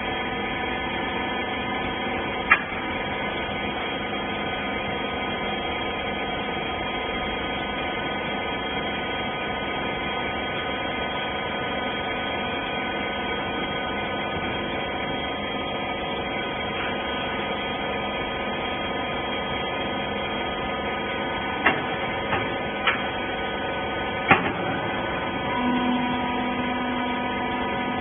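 Hydraulic rag baler's power unit, its electric motor and pump, running with a steady hum. A few sharp clicks or knocks: one about two and a half seconds in and a short cluster near the end.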